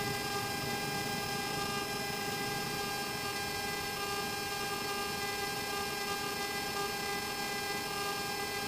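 Steady drone of a Beechcraft King Air F90's twin Pratt & Whitney PT6A turboprops heard from inside the cockpit: an even hum of several held tones over a rushing noise, with no change in power, on the landing rollout just after touchdown.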